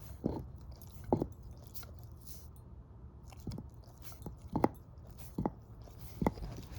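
A shepherd-mix dog chewing a bone: separate loud crunches and cracks, a few every couple of seconds, at an irregular pace.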